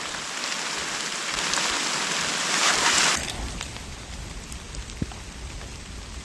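A steady rushing hiss, rain-like, that cuts off abruptly about three seconds in. It is followed by a quieter low rumble with scattered faint ticks.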